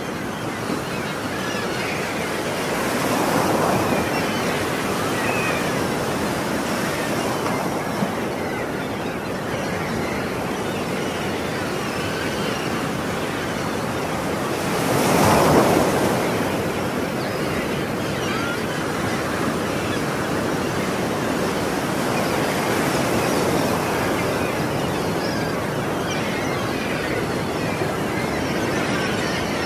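Ocean waves washing ashore in a steady surf, with the loudest wave breaking about halfway through and a smaller swell a few seconds in. Seagulls call faintly now and then.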